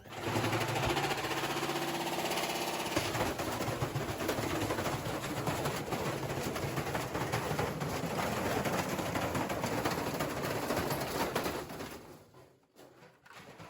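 Washing machine running loudly: a steady motor hum for the first few seconds, then a dense, fast mechanical rattling that dies away about twelve seconds in.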